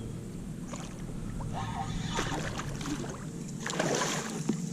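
Water splashing and sloshing beside a kayak in three short bursts, the last the loudest.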